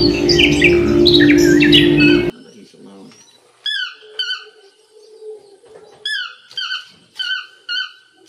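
Background music with bird chirps cuts off abruptly about two seconds in. After that a toucan gives a run of short, squeaky, down-slurred calls, singly and in quick pairs.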